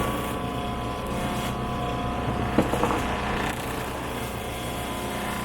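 Steady machine drone of the sailboat's motor together with the Rainman watermaker's pump running, with a steady whine over it and a brief knock about two and a half seconds in. The pump is pushing fresh water through the watermaker to flush the salt water out of its membrane.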